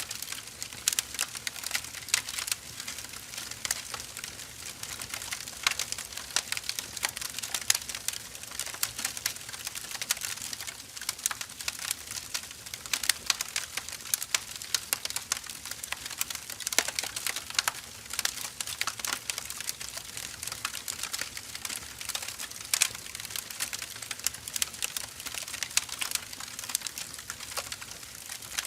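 Wood fire crackling: dense, irregular pops and snaps of burning firewood over a steady hiss.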